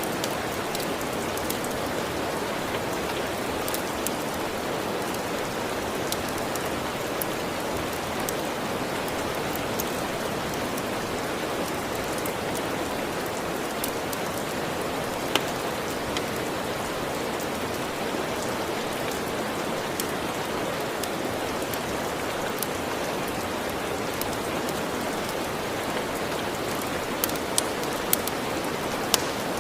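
Steady rain falling in an even hiss, with scattered sharp clicks over it and a few louder pops near the end.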